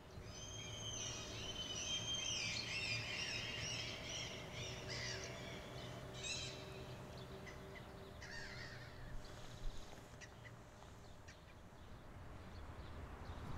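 Birds chirping and calling, many short high whistled notes and trills that thin out after about nine seconds, over a faint steady low hum.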